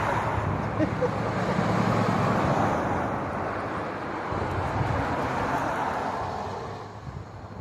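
A motor vehicle passing by: a low engine hum and tyre hiss that build up, hold for a few seconds, then fade away near the end.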